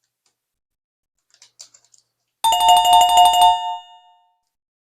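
Loud electronic two-tone chime like a doorbell, pulsing rapidly for about a second and then fading away, after faint rustling.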